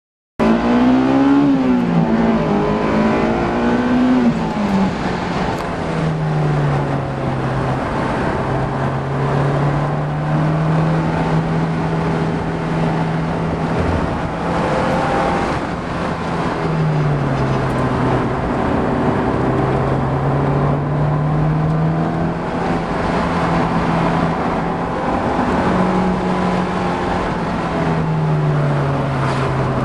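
Honda S2000's four-cylinder engine heard from inside the cabin while it is driven on a race track, its note rising and falling with throttle and gear changes over road and wind noise. The pitch climbs at the start, drops about five seconds in, and dips and climbs again twice later.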